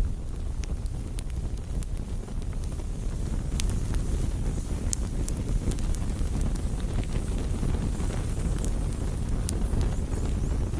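Campfire burning with a steady low rumble of flames and scattered sharp crackles and pops from the burning wood.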